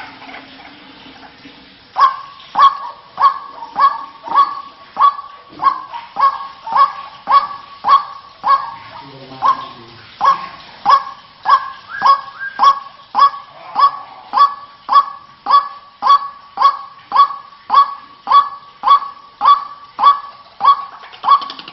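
White-breasted waterhen (ruak-ruak) calls repeated in a steady series of short honking notes, nearly two a second, starting about two seconds in.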